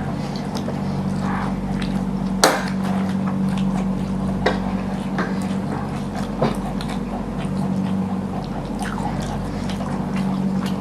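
Eating sounds: wet chewing and mouth noises from people eating spicy noodles and fried chicken, with scattered small clicks and a few sharper clicks, the loudest about two and a half seconds in, over a steady low hum.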